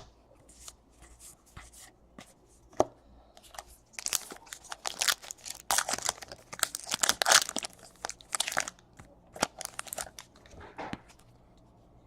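Paper-and-foil trading card pack wrapper being torn open and crinkled, a quick run of rustling and crackling heaviest in the middle of the stretch.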